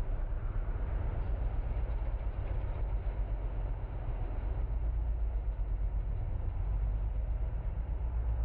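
Kawasaki Ninja RR's 150 cc single-cylinder two-stroke engine running steadily at idle.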